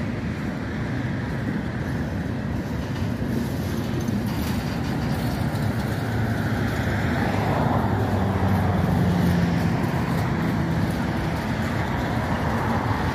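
Long diesel freight train rolling past below with a steady rumble of wheels on rail. A distributed-power diesel locomotive in the middle of the train draws near, and its engine hum grows stronger about seven seconds in.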